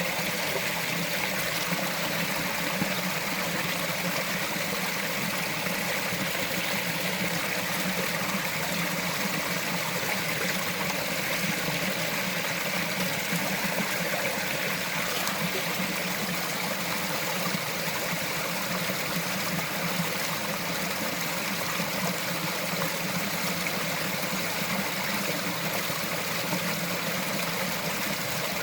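A small forest stream flowing and trickling over rocks, a steady, even babble.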